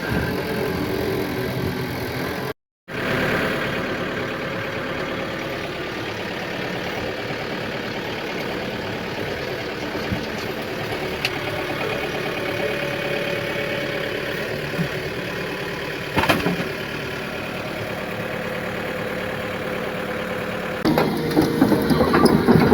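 A 20-ton excavator's diesel engine running steadily, with a brief dropout about three seconds in and a sharp knock about sixteen seconds in. Music comes in near the end.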